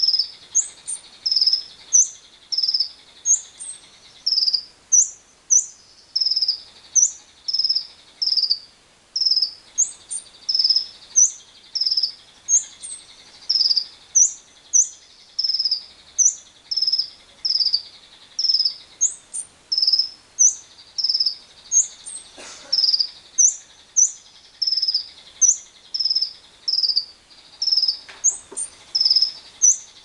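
A bird calling in short, shrill chirps, each flicking up at the end, about three every two seconds, over a steady high drone of insects.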